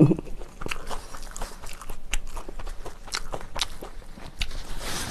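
Close-up eating sounds: chewing with many short, sharp mouth clicks, then a bite into a piece of kimchi pancake near the end.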